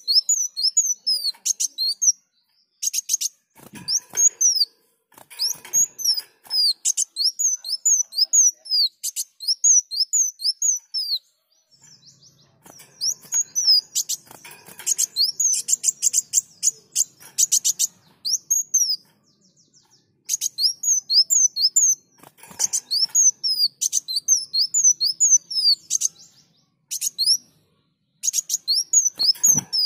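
A kolibri wulung sunbird singing at length: fast runs of high, downward-slurred chirps repeated over and over, broken by short pauses.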